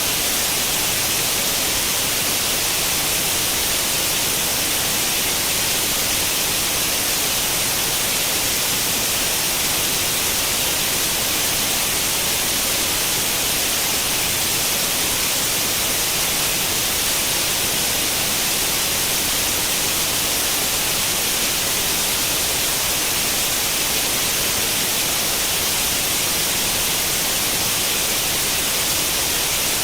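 Steady white-noise hiss imitating the static of an old tube television with no channel tuned. It is even and unchanging, brighter and hissier toward the top.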